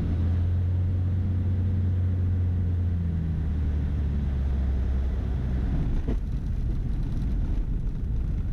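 Beechcraft Bonanza's piston engine and propeller heard from inside the cabin on landing, a steady low drone that eases off about five to six seconds in as the power comes back, leaving a rumble.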